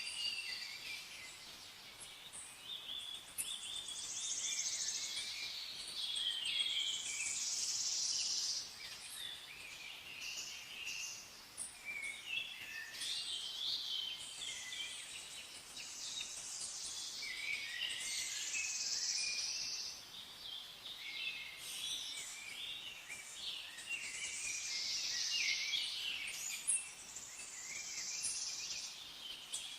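Many birds chirping and singing at once in a dense, overlapping chorus of short high calls, swelling louder every several seconds.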